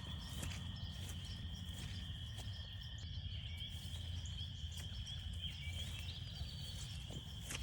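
A chorus of frogs calling: a steady high-pitched trilling drone with short rising peeps repeating over it, above a low steady rumble.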